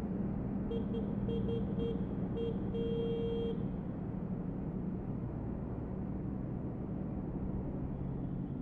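Motorbike riding with a steady engine hum, and a vehicle horn sounding a string of short single-pitched toots followed by a longer one, between about one and three and a half seconds in.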